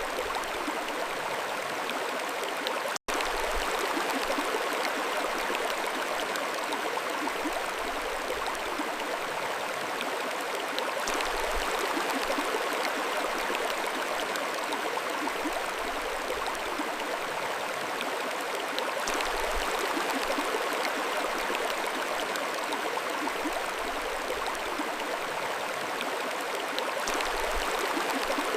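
Mountain stream flowing steadily, a continuous rush of water that cuts out for an instant about three seconds in.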